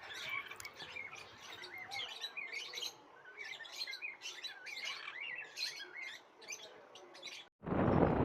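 Caged parrots chirping and twittering, many short calls from several birds overlapping. Near the end the sound cuts off abruptly and a louder steady rushing noise starts.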